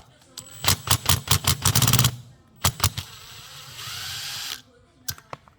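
Workshop tool noises. A run of sharp clicks speeds up into a fast rattle and stops, two more clicks follow, then comes a short steady hiss that cuts off suddenly.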